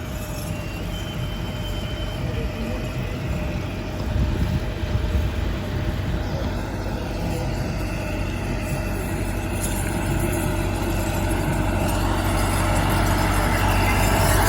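Diesel tractor engine running steadily, getting a little louder toward the end.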